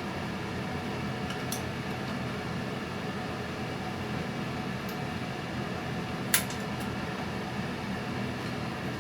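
Steady low mechanical hum from a running machine, with a few faint clicks and one sharp click about six seconds in.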